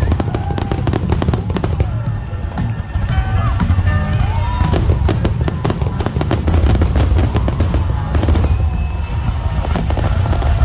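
Aerial fireworks shells bursting in quick succession, a dense run of booms and crackles with a deep rumble underneath.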